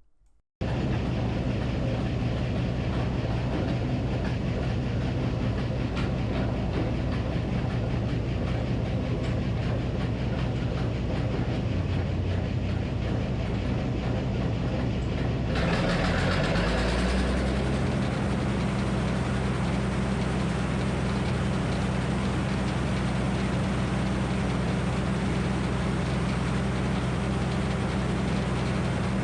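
Minneapolis Moline HEB 605 cubic-inch engine running steadily, driving the Frick circular sawmill. Just past halfway its note dips briefly and then settles again, with a short burst of hiss.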